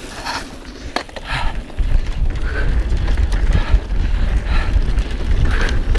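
Mountain bike riding fast down a dirt trail: rattling and clicking of the bike and tyres on the dirt, joined about two seconds in by a loud, steady low rumble of wind on the helmet camera's microphone.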